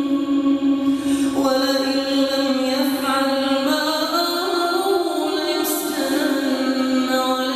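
A single voice reciting the Quran in a slow melodic chant, holding long drawn-out notes that step between pitches.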